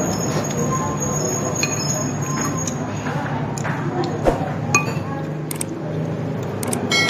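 A metal spoon clinking against a bowl several times while eating bakso, some strikes leaving a brief high ring, over a steady background hum.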